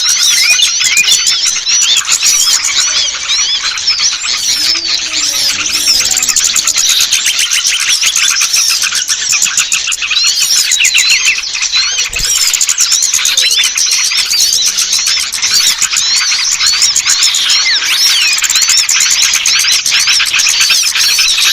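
A dense chorus of many small songbirds chirping and twittering at once, rapid overlapping high chirps with no break. This is a bird-trapper's lure call ('pikat') meant to draw small birds down.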